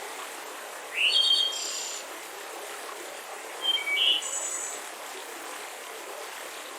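Songbirds chirping over the steady rush of a mountain river: a short burst of calls about a second in, beginning with a quick rising note, and another burst a few seconds later.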